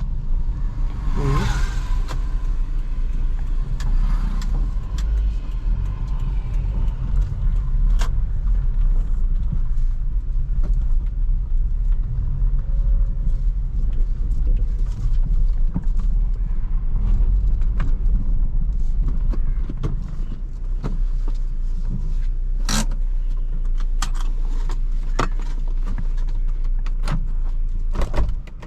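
2004 Toyota Corolla driving: a steady low engine and road rumble with scattered clicks and rattles, a brief whoosh about a second in, and a sudden drop in level at the very end.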